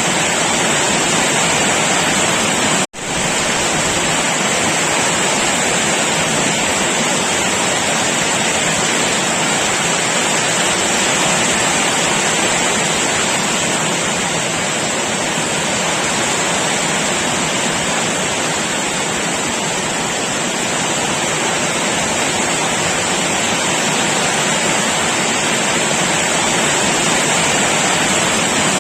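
Heavy rain falling steadily, a continuous even hiss that cuts out for an instant about three seconds in.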